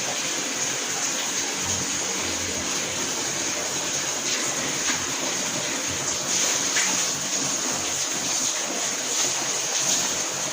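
Wash water draining out of a Yoko mini washing machine, a steady sound of pouring, splashing water.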